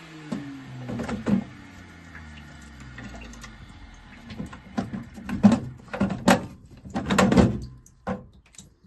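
A motor's whirring hum winds down, falling steadily in pitch over the first few seconds. Then comes a run of sharp knocks and clatters, the loudest about five to seven and a half seconds in.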